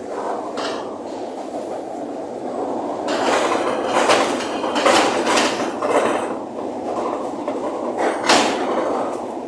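Strong gusting wind, a steady rushing that swells into louder gusts about three to six seconds in and again briefly near the end.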